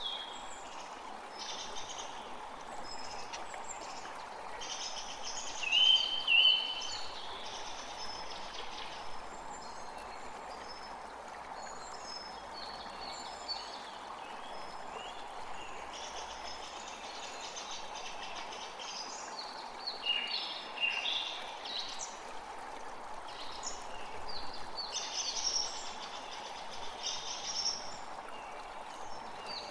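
Many birds chirping and singing over the steady rush of a stream. The loudest event is a pair of short, clear calls about six seconds in.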